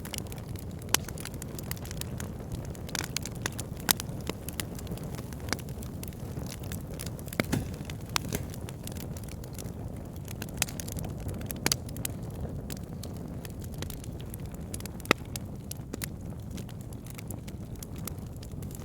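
Wood fire burning in a fireplace: a steady low rumble of flames with frequent irregular crackles and sharp pops as the wood burns.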